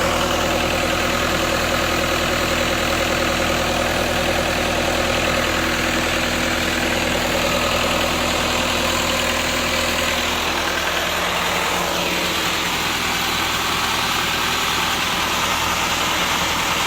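Engine of a Lincoln SAM 400 engine-driven welder running at a steady idle, with an even drone of steady tones; the low part of the sound thins out somewhat about ten seconds in.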